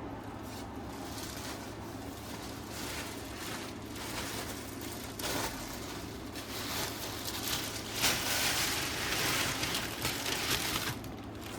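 Rustling and crinkling of sofa-cushion packaging being handled, louder and denser for a few seconds near the end.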